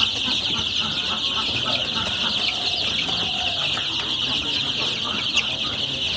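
A brood of chicks peeping nonstop, many high calls overlapping into a dense chorus, with one sharp click about five seconds in.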